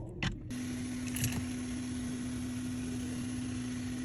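A click, then a small electric motor switches on about half a second in and runs with a steady hum and hiss.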